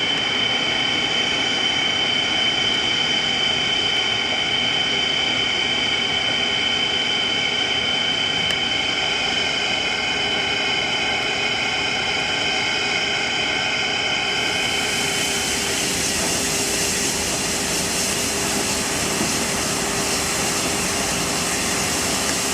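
C57 1 steam locomotive venting steam with a steady loud hiss, carrying a whistling tone for its first part. About fourteen seconds in the hiss turns brighter and broader.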